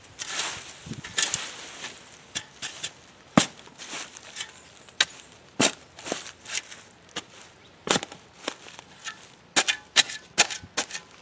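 Garden digging tool striking into soil for planting: a series of irregular sharp knocks, with a quick run of strikes near the end.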